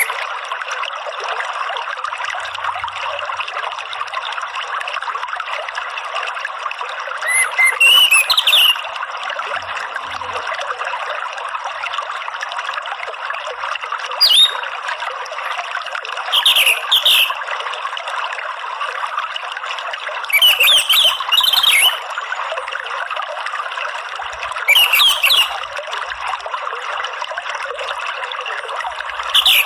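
Steady trickling water with an orange-headed thrush (anis merah) breaking in with about half a dozen short, loud phrases of song every few seconds. This is the water-and-birdsong therapy audio that keepers play to bring a caged anis merah into full song.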